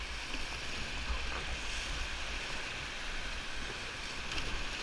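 Steady rush of whitewater as a raft runs a river rapid, with low wind rumble on the microphone.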